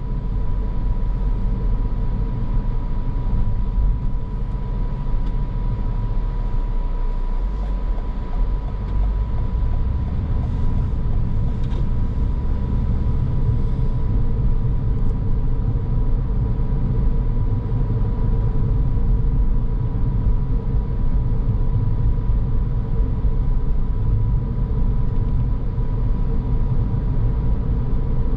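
Car driving along, a steady low rumble of road and engine noise with a thin, steady whine running through it.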